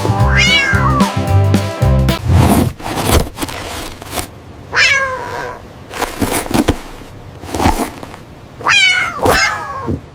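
A kitten meowing three times, about half a second in, near the middle and near the end, each call rising then falling in pitch, over background music that is louder in the first few seconds.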